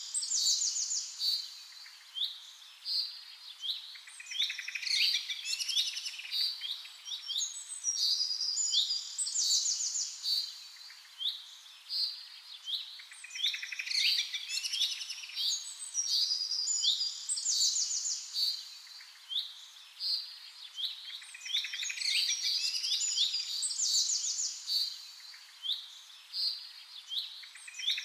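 Songbirds singing, several overlapping high chirps and quick trills that come again and again in dense phrases.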